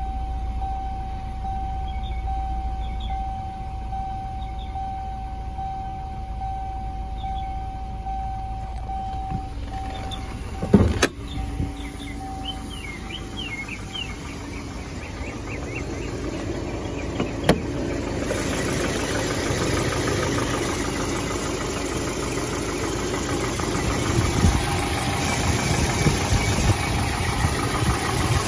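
Volvo 760's 2.3-litre turbocharged four-cylinder engine idling after a cold start. It is heard first from inside the cabin under a steady electronic warning tone that stops about halfway through, with a sharp thump just before. In the last ten seconds it is louder and more mechanical, heard right over the open engine bay.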